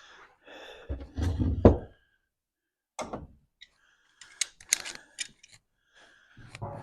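Heavy thumps about a second in, then a knock and a run of sharp clicks and taps: hand work on a compact tractor, parts and tools being handled.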